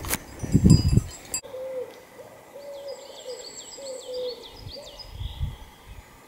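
A bird's low hooting call: about seven short, even notes spaced over three seconds, with higher chirps from small birds above. In the first second there are a few loud low thuds.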